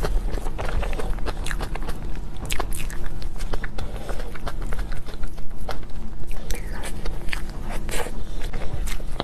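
Close-miked mouth sounds of a person biting and chewing cake: irregular wet smacks and sharp clicks several times a second, over a steady low hum.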